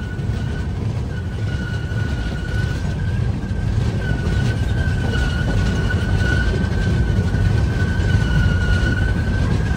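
Passenger train running along the track, heard from the open side of the coach: a heavy rumble of wheels and wind buffeting that grows slowly louder, with a steady high-pitched squeal held throughout.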